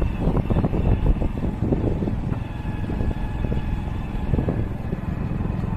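Riding on a motorcycle: steady low engine and road rumble with wind buffeting the microphone.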